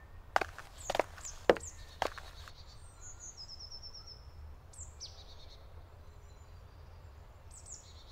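Forest ambience with birds calling: short, high descending chirps and a rapid trill, over a steady low rumble. About half a second in come four sharp knocks, roughly half a second apart, the loudest sounds here.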